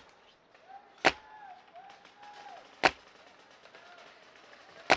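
Paintball marker firing single shots: three sharp cracks, about two seconds apart.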